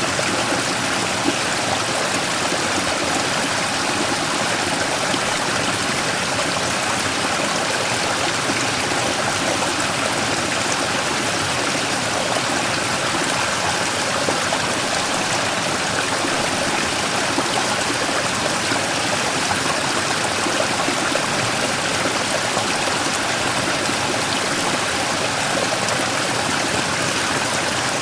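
Mountain stream rushing and splashing steadily over a large rock, with a constant even wash of water noise.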